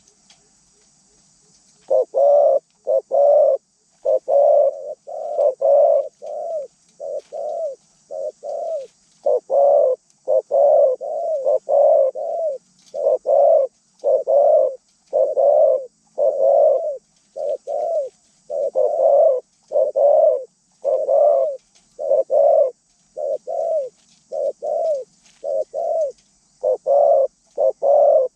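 Zebra dove cooing: a long run of short, rhythmic coo notes in quick groups, starting about two seconds in and continuing without a break.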